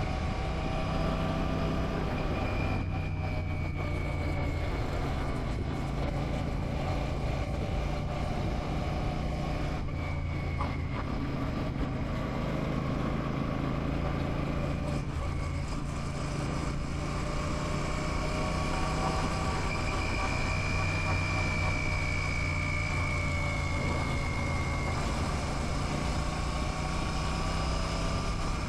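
Royal Enfield Classic 650's parallel-twin engine running on the move at a fairly steady cruise, its pitch rising and falling slightly a few times, over a steady rush of noise.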